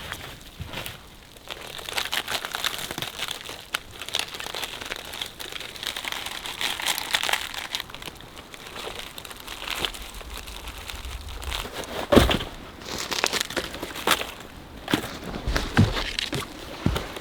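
Crunching and crackling of dead twigs and brush being broken and handled, with a sharp snap about twelve seconds in.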